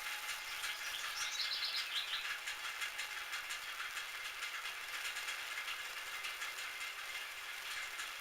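Metal lathe running, a steady hiss with rapid light ticking throughout, and a short run of high squeaks about a second in.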